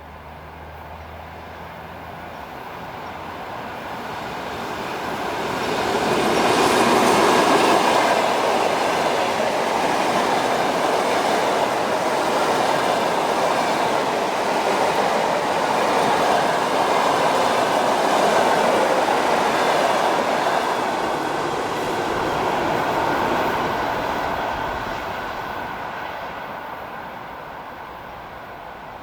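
An electric train passing at speed: the rumble and clatter of its wheels on the rails grows louder over several seconds, holds loud for about fifteen seconds, then fades away.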